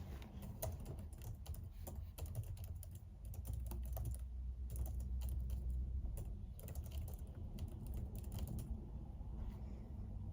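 Typing on a computer keyboard: a quick, irregular run of key clicks that stops shortly before the end, over a steady low hum.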